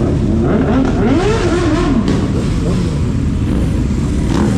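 Motorcycle engine running with a steady low rumble, its pitch rising and falling over the first couple of seconds.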